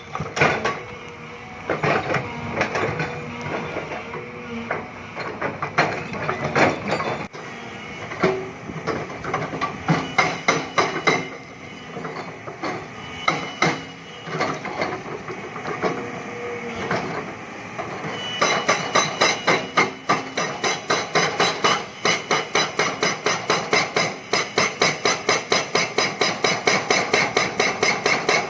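Hyundai crawler excavator working limestone rock: irregular metallic clanks and knocks over the diesel engine, then from about 18 seconds in a steady, fast pounding of about three to four strikes a second.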